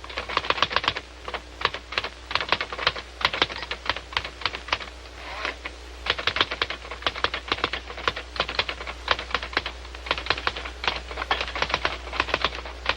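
Manual typewriter being typed on in quick runs of keystrokes, with a few brief pauses between runs.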